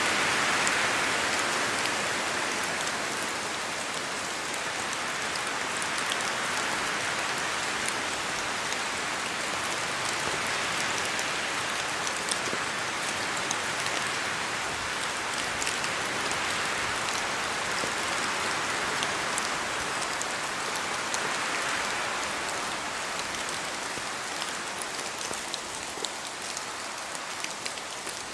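Steady rain falling through forest trees, with many individual drops pattering and ticking on leaves. The rush swells and eases slowly in gusts of wind.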